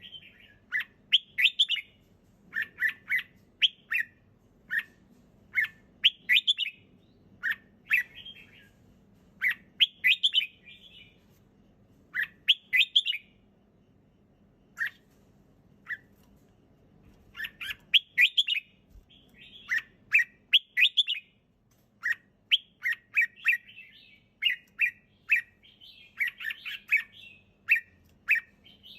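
Red-whiskered bulbul singing: short, bright phrases of quick chirped notes, repeated every second or two, with a sparser lull about halfway through.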